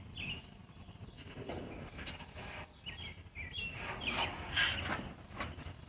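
Small bird chirping in short calls repeated several times, with scattered sharp clicks and knocks.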